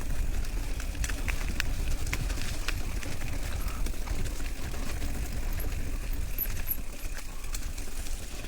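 Bicycle riding noise: a steady low rumble of wind on the microphone, with scattered clicks and rattles from the bike.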